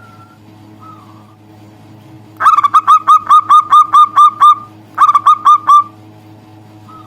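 Zebra dove (perkutut) calling: a fast, loud series of about ten short cooing notes, then a shorter burst of four, with a few faint single notes before and after.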